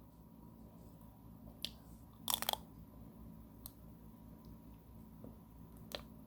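A bite into an ice cream bar: a short burst of crunching about two seconds in, with a few single clicks before and after.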